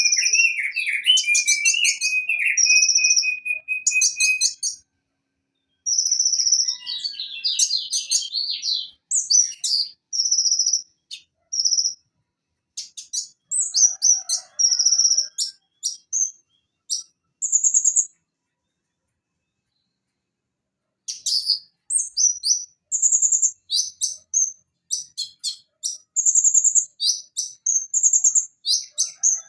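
Konin (van Hasselt's sunbird, Leptocoma sperata) singing in bursts of high, rapid chirps and trills, with a lower buzzing trill at the start and a few silent gaps of one to three seconds.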